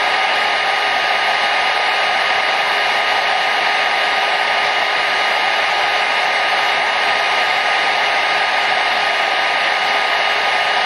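Hair dryer running continuously, a steady, loud rushing of air with a faint motor hum at a few fixed pitches and no change in speed.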